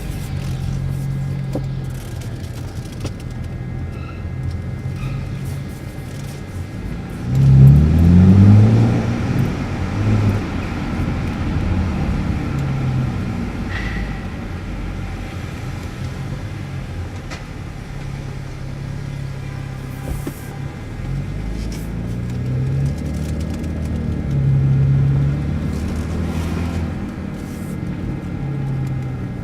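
Exhaust of a muffler-deleted BMW 328i E90 straight-six, with the car driving slowly and making a steady low drone. About eight seconds in the engine revs up and back down, which is the loudest moment, and there is a smaller swell in the drone near the end.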